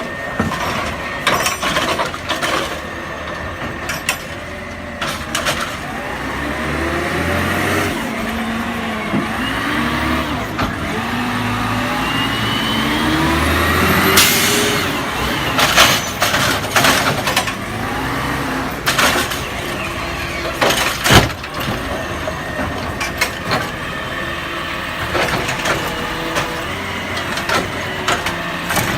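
Garbage truck running, its engine pitch rising and falling several times, with a short air-brake hiss about halfway through and a few sharp clanks and knocks afterwards.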